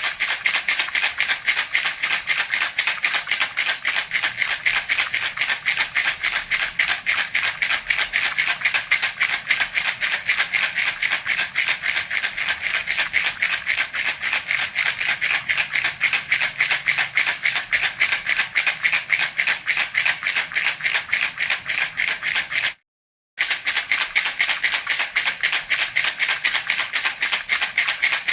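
Baby rattle (jhunjhuna) shaken continuously in a quick, even rhythm, its beads giving a bright, dry rattle. The sound breaks off completely for about half a second near the end, then resumes.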